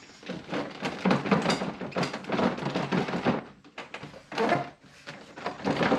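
Clicks, knocks and rattles of hand work on a pickup truck's door trim and hardware: a busy spell for the first three seconds or so, a short lull, then more near the end.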